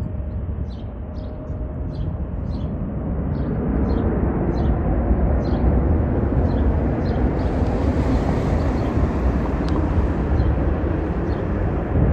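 Jet airliner taking off: a deep engine rumble that swells about three seconds in and stays loud, with a high hiss joining in the middle. Short high chirps repeat about twice a second over it.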